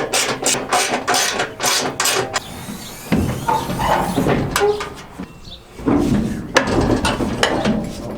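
Combine auger drive running with a fast, even clatter of about five knocks a second, which stops about two seconds in.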